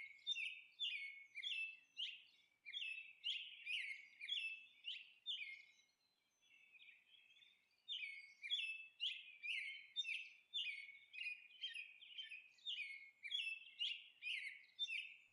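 Bird chirping, short falling tweets repeated about twice a second, with a break of a couple of seconds midway.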